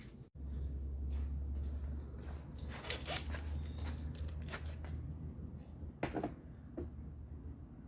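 Scattered small clicks and rattles of screws and plastic trim being handled and set into a truck door panel, over a low steady hum.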